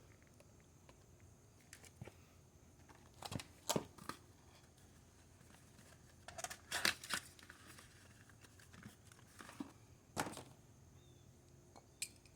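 Intermittent handling noises of a new oil filter and its packaging, with a few sharper clicks and rustles among longer quiet stretches.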